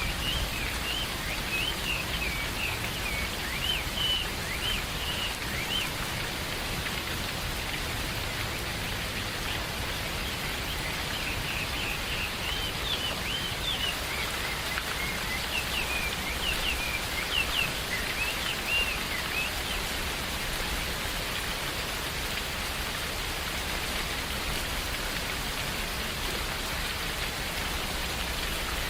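Steady rain falling in a forest, an even hiss throughout. Birds chirp over it in quick, repeated high calls during roughly the first twenty seconds, then fall quiet, leaving only the rain.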